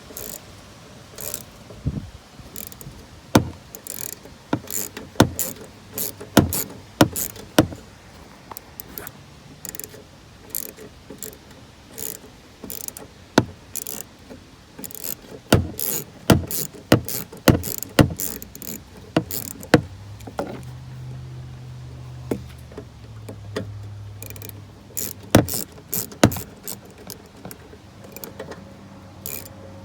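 Irregular clicks, taps and knocks of hand tools working on a truck's door panel and door handle hardware. A low hum comes in briefly past the middle.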